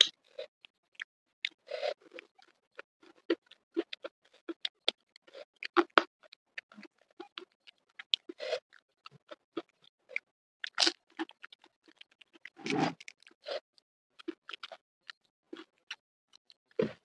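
Close-miked eating: a person chewing crispy flour-battered fried fish, with many short, irregular wet mouth clicks and smacks and a few fuller crunching chews.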